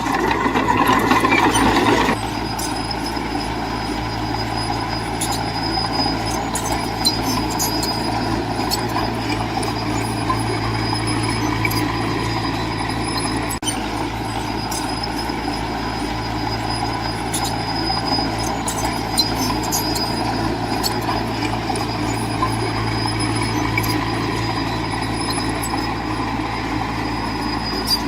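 Heavy diesel earthmoving machine running steadily, louder for about the first two seconds, with scattered short clicks and clanks over the engine.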